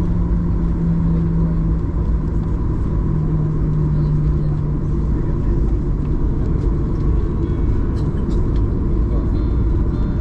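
Steady rumble heard from inside the cabin of a Boeing 737-800, with its CFM56 jet engines running. A low hum slowly falls in pitch over the first five seconds or so, then holds steady.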